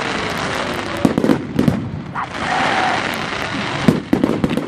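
Fireworks going off: a rapid string of sharp cracks and bangs over a steady hiss, with the loudest clusters about a second in and near the end.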